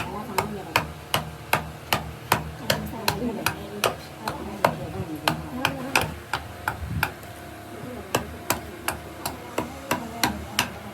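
Hammer strikes on wood, steady and sharp at about two and a half blows a second, with a short pause about seven seconds in.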